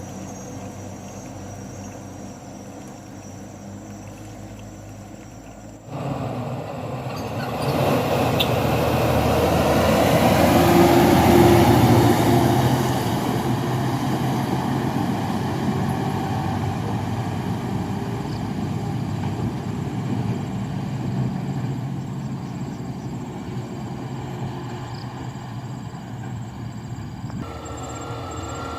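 Loaded dump truck's diesel engine labouring up a steep climb. It jumps louder about six seconds in, swells to its loudest around halfway, then slowly fades as the truck passes.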